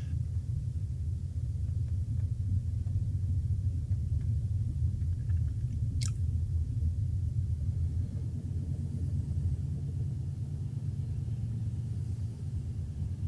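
A moving sleeper train gives a steady low rumble. A single sharp click sounds about six seconds in.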